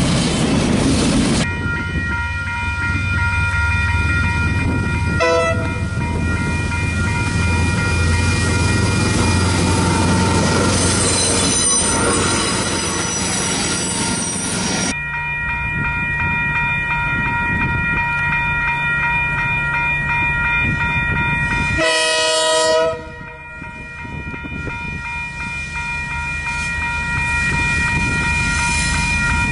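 Freight train hauled by KiwiRail DL class diesel-electric locomotives: the wagons run past on the rails, then the locomotive's horn sounds long, steady multi-note blasts as it approaches, with the diesel engine running underneath.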